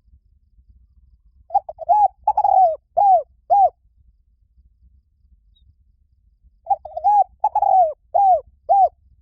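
Spotted dove cooing: two phrases, each a quick stutter of short notes followed by three drawn-out coos that fall in pitch at the end.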